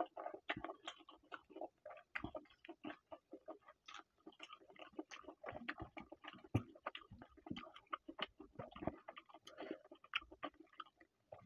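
A person chewing a mouthful of chicken curry and rice, eaten by hand, close to the microphone: many rapid, irregular clicks.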